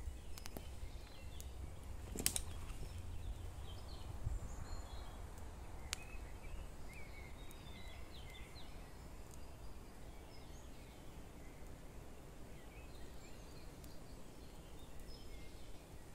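Small birds calling in short chirps, mostly from about six seconds in, over a low steady rumble. A few sharp clicks come in the first seconds.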